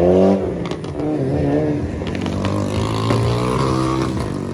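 Car engine revving: it climbs in pitch, drops back about half a second in, then is blipped up and down before settling, with a few sharp cracks along the way.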